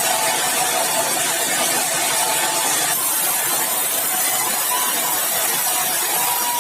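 Sawmill saw running through a meranti batu log: a loud, steady mechanical noise with a faint steady whine in it.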